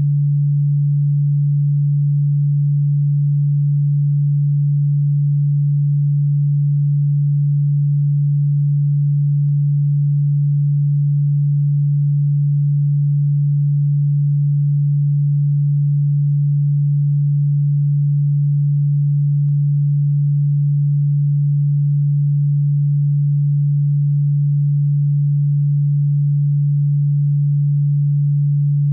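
Electronically generated pure tone, a single low steady note held without any change, played as a cockroach-repellent sound. Despite being billed as ultrasonic, the tone sits low and plainly within hearing.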